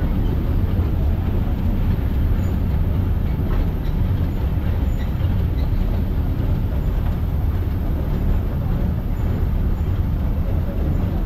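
Matheran toy train, a narrow-gauge hill railway carriage, running along with a steady low rumble heard from the open carriage window.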